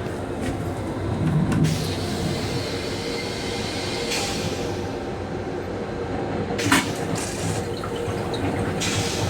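Steady running rumble of an M7 electric railcar in motion, with a few clicks and one sharp knock about two-thirds of the way through.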